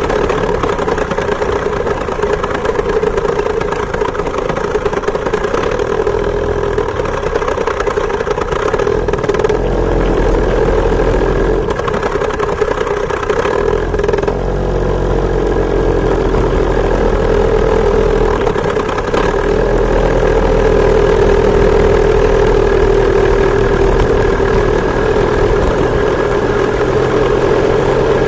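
Two-stroke chainsaw engine driving a homemade moped, running steadily under way, its pitch sagging and rising a little a few times as the speed changes.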